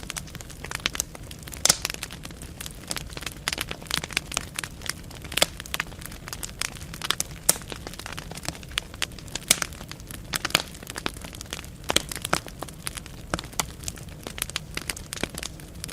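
Wood fire burning in a fireplace: logs crackling and popping in an irregular stream of sharp snaps over a low steady rumble of the flames.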